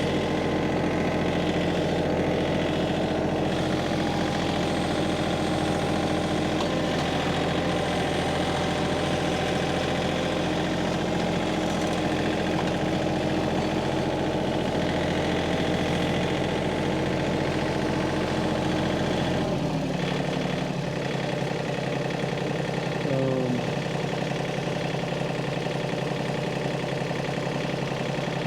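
Engine idling steadily. About two-thirds of the way through its note changes and the deepest rumble drops away, with a brief falling whine soon after.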